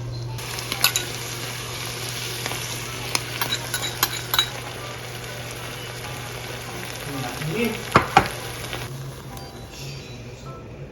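Food sizzling in a hot frying pan, with a cooking utensil clicking and scraping against the pan several times; the sizzle stops shortly before the end.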